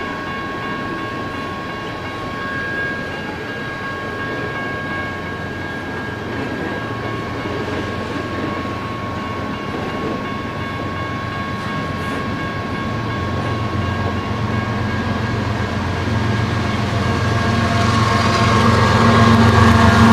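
Loaded coal hopper cars of a BNSF train rolling steadily past a grade crossing, a constant rumble with steady high tones over it. From about thirteen seconds in, a low diesel engine rumble builds and grows louder as a BNSF ES44AC locomotive approaches.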